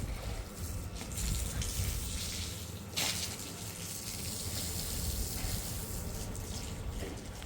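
Running, splashing water, with a sudden louder splash about three seconds in.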